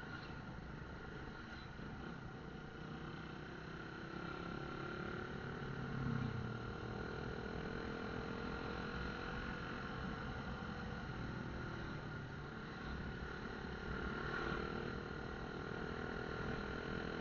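Motorcycle running on the road, with steady road and wind noise under its engine note; the engine pitch rises a few seconds in, as when accelerating.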